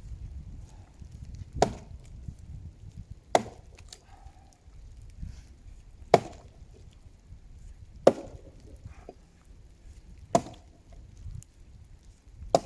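Axe chopping into the trunk of a long-dead, seasoned tree: six sharp blows, about two seconds apart.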